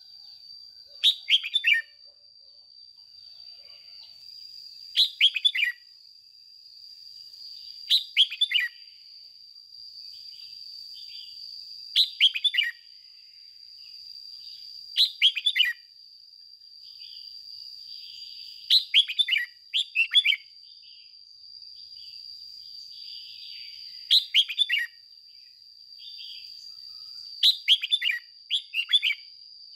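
Red-whiskered bulbul singing short phrases of a few quick notes that glide downward, one phrase every three to four seconds, about eight in all. A steady high-pitched whine runs underneath throughout.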